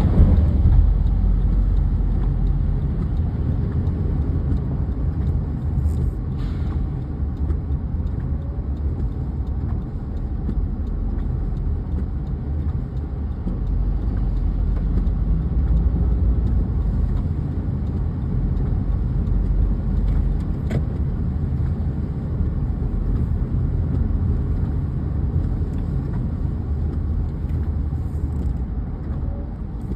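Steady low rumble of a car driving, engine and tyre noise, with a couple of faint clicks.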